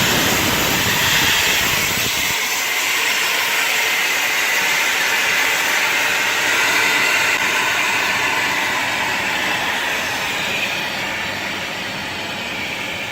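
Steady hiss of steam venting from a wood-fired sauna stove after water has been poured into its hot interior, slowly dying down near the end.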